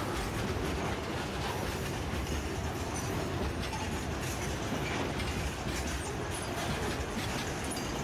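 Freight train wagons rolling past: a steady rumble of steel wheels on the rails, with faint short high squeaks and clicks through it.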